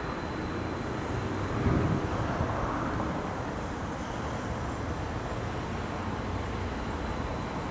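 Stadler FLIRT electric multiple unit (DB class 429) approaching on the track, a steady low rumble with a brief louder swell about two seconds in.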